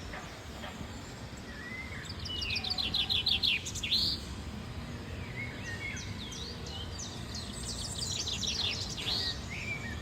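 Birds chirping and calling. There is a fast run of high, rapid notes about two seconds in, sharp upward chirps around four seconds and again near the end, over a steady low background rumble.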